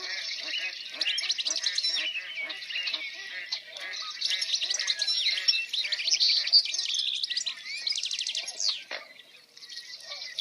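Several songbirds chirping and singing together in quick, overlapping phrases, with a fast trill about eight seconds in. A lower call repeats a few times a second underneath.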